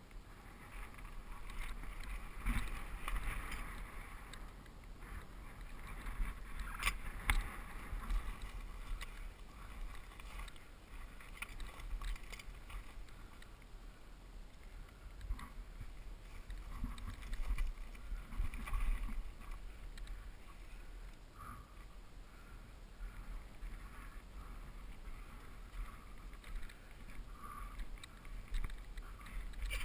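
Mountain bike rolling down a dirt trail: steady wind rumble on the microphone with tyre noise over dirt and scattered clicks and rattles from the bike.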